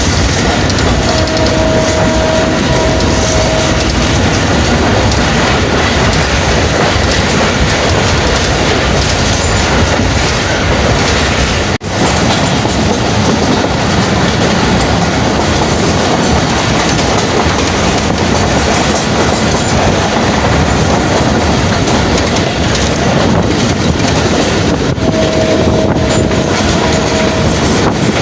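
Karachi Circular Railway passenger train running along the track, with loud, steady rumble and rattle and the clickety-clack of the wheels on the rails. A steady tone rises above it twice, near the start and again near the end.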